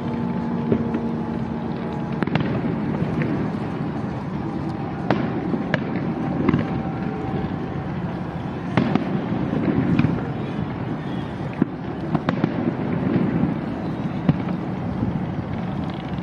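A fireworks display going off close by: a continuous run of bangs and crackling reports, one after another.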